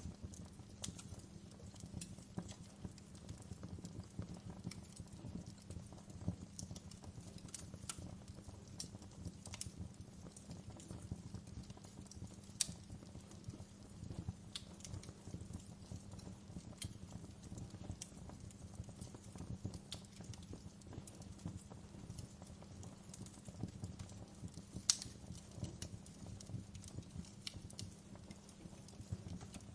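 Wood fire in a fireplace crackling: irregular sharp pops over a steady low background, with one louder pop toward the end.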